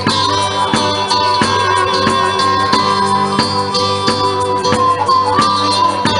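Live blues band playing an instrumental passage, led by guitar over a steady, even rhythm.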